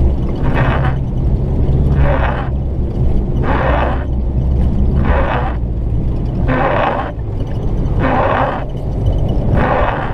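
Diesel 4x4's engine running with a steady low rumble while wading deep water, overlaid by a rasping swish that repeats about every second and a half.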